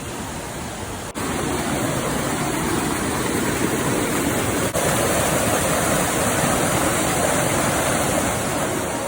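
Waterfall: a steady rush of falling water. It breaks off for an instant about a second in and again near the middle, and is louder after the first break.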